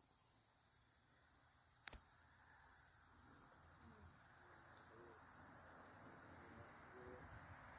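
Near silence with a faint, steady high-pitched chirring of insects, and a single sharp click about two seconds in.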